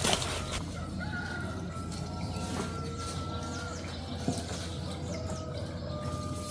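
A rooster crowing: one long, drawn-out crow starting about a second in and lasting over two seconds, then a shorter call near the end.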